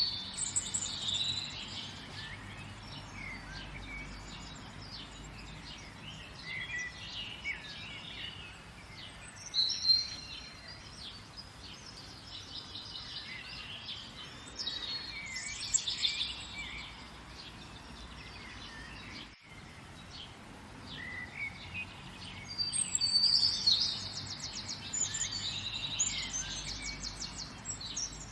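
Several songbirds chirping and singing in overlapping phrases, busiest near the start, around the middle and again late on, where one bird gives a rapid trill, over a steady soft background hiss.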